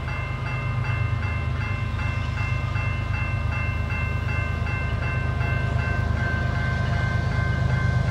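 Diesel locomotive of an approaching CP coal train, a steady low rumble, with a bell ringing in even strokes about two to three times a second.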